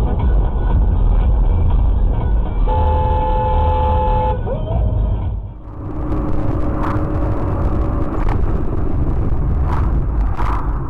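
Steady low road and engine rumble of a moving car, with a car horn sounding once for about a second and a half, about three seconds in. About halfway the rumble goes on in a different recording, with a fainter steady tone and a few light clicks.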